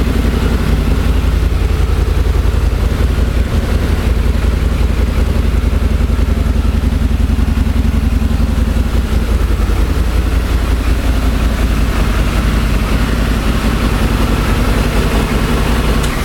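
Harley-Davidson V-Rod's liquid-cooled Revolution V-twin idling steadily.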